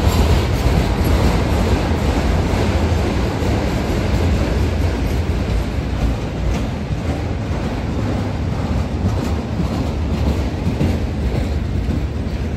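Norfolk Southern freight train's cars rolling past close by: a steady, loud rumble of steel wheels on the rails.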